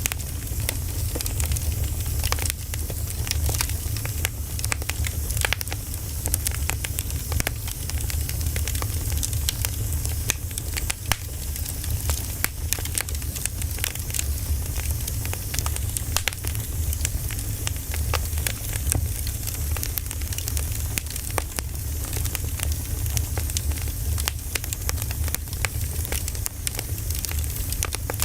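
Wood fire burning steadily, with frequent irregular sharp crackles and pops over a low continuous rumble.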